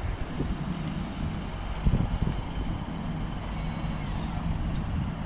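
A hatchback car creeping round in a slow circle on full steering lock, its engine humming steadily at low revs, with wind now and then buffeting the microphone.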